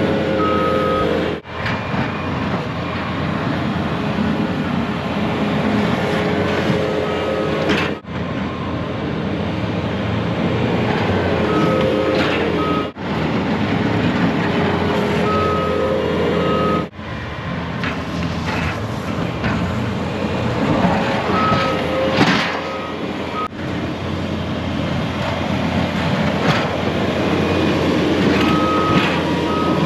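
Skid loader engine running steadily while plowing snow, its backup alarm beeping in short runs every few seconds as it reverses. The sound breaks off abruptly for an instant a few times.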